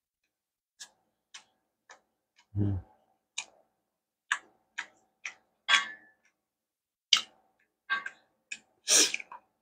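Close-miked chewing of a mouthful of pineapple fried rice: a run of short wet mouth clicks about twice a second, with one low thud about two and a half seconds in. Near the end comes a longer, louder sound as the wooden spoon scoops rice from the metal platter.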